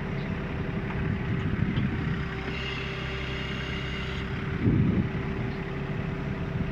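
Mini excavator's diesel engine running steadily, heard from inside the cab. About two and a half seconds in, a higher whine joins for a second and a half, and a short louder low surge comes near the five-second mark.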